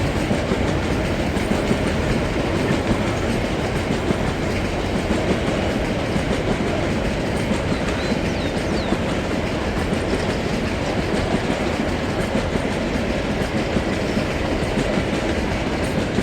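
Freight train wagons rolling past fast, a steady loud rumble with the rapid clatter of wheels over rail joints.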